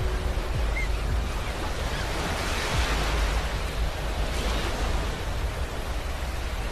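Ocean surf washing onto a beach: a steady rush of breaking waves over a low rumble, with one wave swelling louder about two to three seconds in and then easing off.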